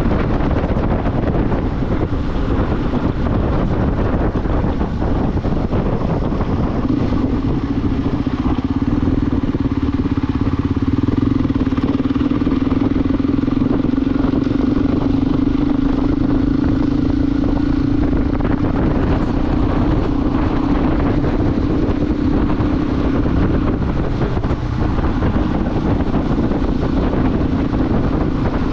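Motorcycle riding at a steady speed, with a dense rushing noise over the engine. A steady engine hum comes in about a quarter of the way through and holds until near the end.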